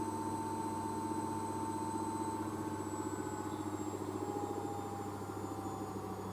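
Arçelik front-loading washing machine on a spin cycle: a steady hum with a fast pulsing churn from the drum and a motor whine that starts to fall slowly in pitch about halfway through, as the drum begins to slow from top speed.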